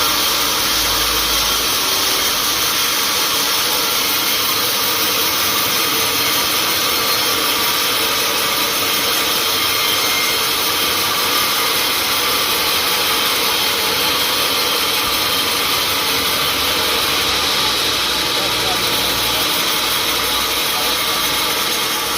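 Sawmill machinery running steadily: a loud, constant noise with no breaks or changes.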